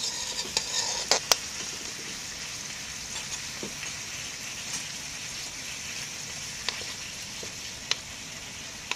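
Beef and vegetables sizzling in oil in a metal wok: a steady frying hiss. A few sharp clicks of a metal utensil against the pan come near the start and near the end.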